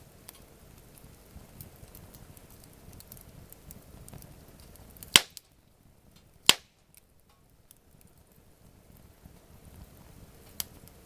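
Wood campfire crackling softly, with two loud sharp pops just past the middle, about a second and a half apart, and a smaller pop near the end.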